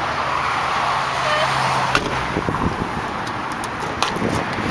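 Steady road-traffic rumble and hiss, with a low hum for the first two seconds, a sharp click about two seconds in, then rougher, uneven noise.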